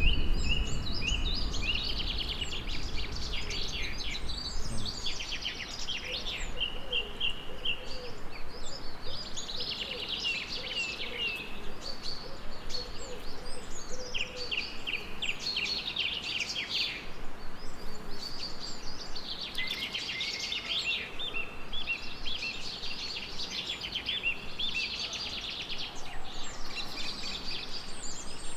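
Songbirds singing in repeated fast trilled phrases, one after another with short gaps. A low rumble of thunder dies away over the first few seconds.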